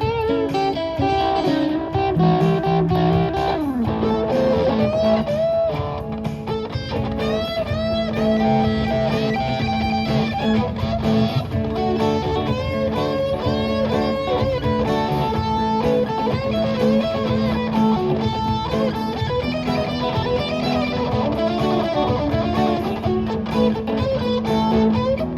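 Blues band playing an instrumental break led by electric guitar, with repeated bent notes over a steady backing.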